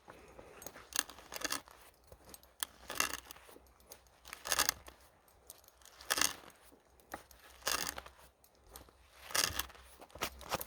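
Hand tool cutting wood in slow, even scraping strokes, about one every second and a half.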